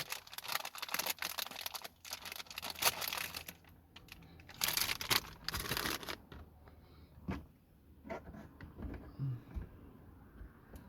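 Crinkling and rustling of a plastic sweet wrapper being opened, loudest in a burst about halfway through, followed by a few scattered clicks and knocks.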